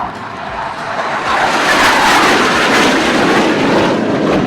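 Hawk jet trainers of an aerobatic display team flying past low. The jet noise swells over the first two seconds to a loud peak and drops in pitch as they go by.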